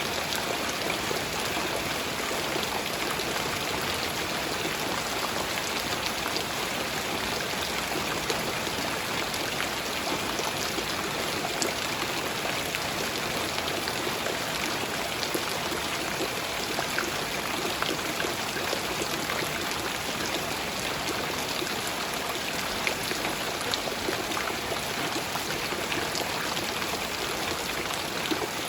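Light rain falling steadily: an even hiss with scattered drop ticks.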